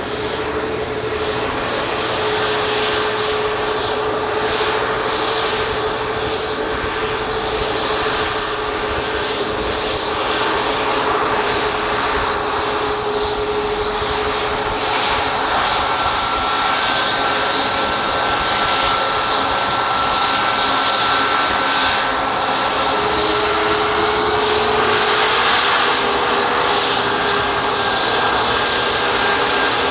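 Jet airliner engines running, a steady whine over a broad rush, growing slightly louder through the second half.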